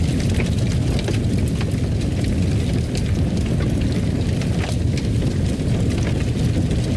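Fire burning in a fireplace: a steady low rush with frequent small, irregular crackles and pops.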